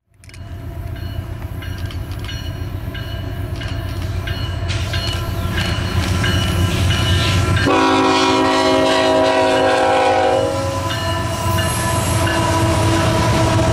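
Diesel freight locomotives passing close by: a steady low engine rumble with wheels clattering on the rails. About eight seconds in, a multi-chime air horn sounds one long blast of about three seconds.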